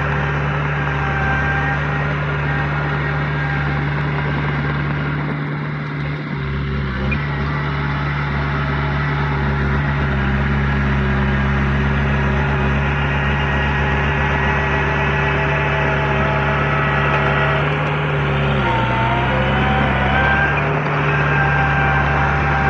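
Heavy earthmoving machine's diesel engine running steadily, its pitch dipping and recovering briefly twice.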